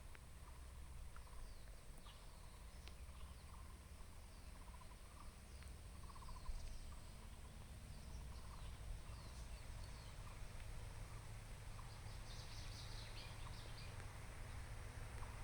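Faint bird calls of an unidentified species: short scattered chirps and notes, with a quicker run of high twittering about twelve seconds in. A low steady rumble lies beneath.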